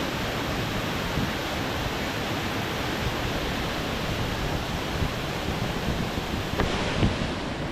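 Steady rushing of a waterfall's falling water, with a couple of short knocks near the end.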